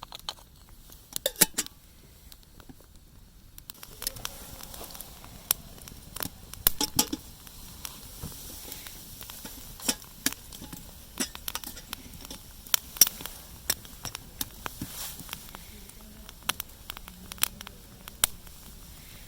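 Wood fire crackling, with irregular sharp pops. A soft, steady hiss joins about 4 seconds in.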